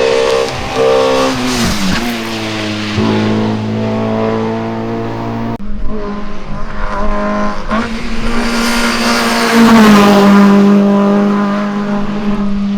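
Hillclimb race car engine at full throttle, its pitch climbing and dropping sharply through quick gear changes, then falling away as the car brakes and downshifts. About five and a half seconds in the sound cuts abruptly to another stretch of hard acceleration with more upshifts.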